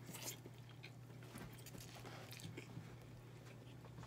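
Close-up chewing and biting of takeout Chinese food, with scattered short soft clicks, over a faint steady hum.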